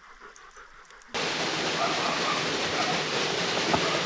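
Steady rushing water, a stream or surf, which starts suddenly about a second in over a quiet background.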